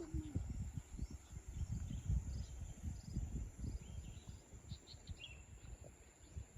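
Faint outdoor nature ambience: irregular low rumbling with a few faint, short, high chirps scattered through it.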